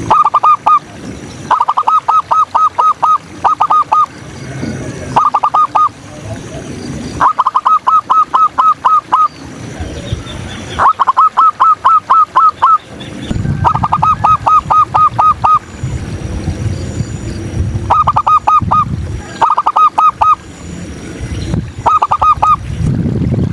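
Zebra dove (perkutut) calling in rapid bursts of short, pitched hooked notes, about eight a second, repeated again and again with brief pauses between bursts.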